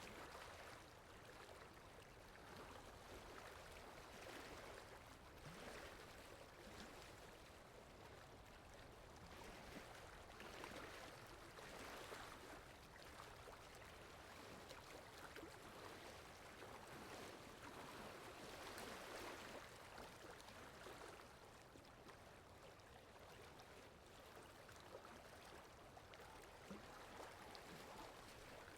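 Faint rain ambience: a soft, even hiss of falling water that swells and eases every few seconds.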